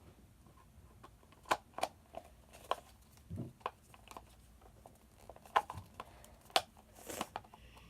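Scattered light clicks and taps from small plastic toy packaging pieces being handled, with a brief rustle near the end.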